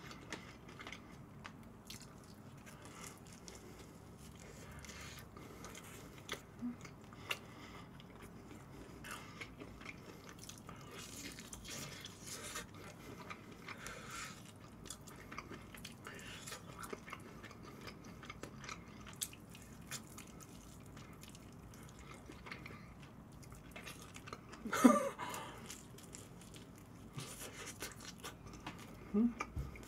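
Close-miked chewing and biting of sauce-glazed fried chicken and pizza: faint wet mouth sounds with small crunches and clicks. A brief vocal hum comes near the end.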